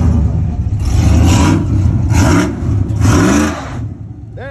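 A vehicle engine revving in three short bursts over a steady low rumble, the pitch rising with each burst.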